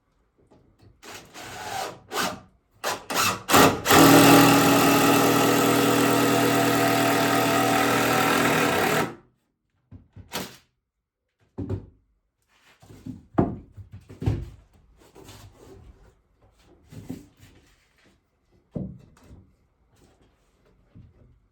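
A power drill runs steadily at one pitch for about five seconds, then stops suddenly. Before and after it come scattered knocks and clatter of wood and tools being handled.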